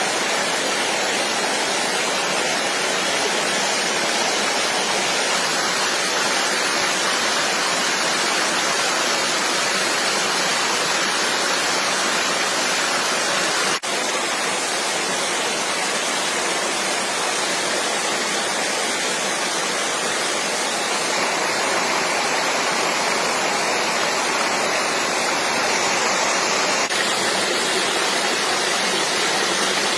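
Flowing stream water rushing steadily, with a momentary dropout about halfway through.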